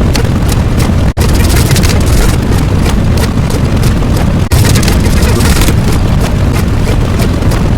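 Loud, steady rumbling noise, heaviest in the low end, with two brief drop-outs, about a second in and about four and a half seconds in.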